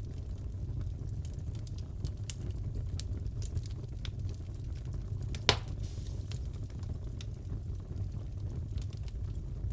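Wood fire crackling in a fireplace: a steady low rumble of flames with scattered small pops and ticks, and one sharp louder pop about halfway.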